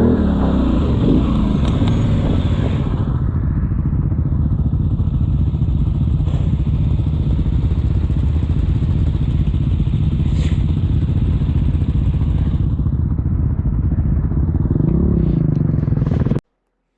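ATV engine running as it is ridden, a steady low rumble with a brief rev about three-quarters of the way through, then the sound cuts off suddenly near the end.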